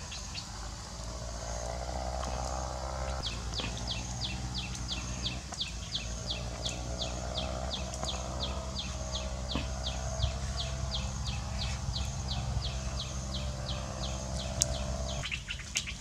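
A bird calling a rapid, even series of short, high, falling notes, about three a second, starting about three seconds in and stopping shortly before the end, over a steady low hum.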